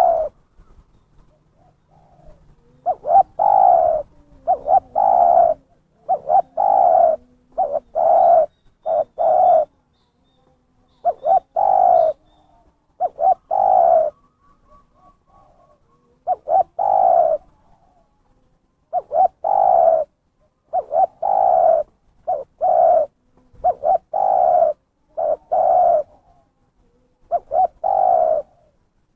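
Spotted dove (terkukur) cooing repeatedly, a lure call: short, fairly low coo notes in runs of two to four, with pauses of a second or two between runs.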